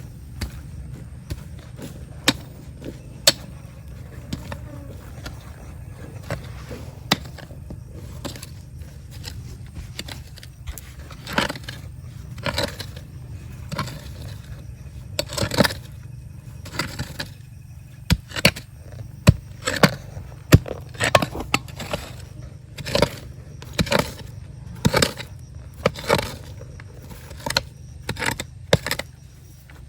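Rocks and gravel being dug and scraped, with many short sharp knocks and scrapes that come thicker and louder through the second half, over a steady low rumble.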